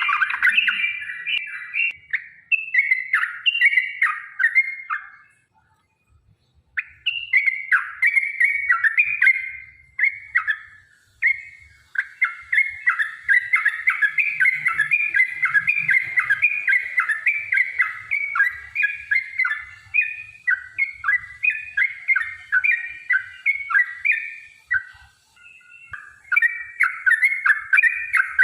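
Yellow-vented bulbul (trucukan) singing a long, fast rolling run of bubbly chirping notes, breaking off briefly about six seconds in and again near the end.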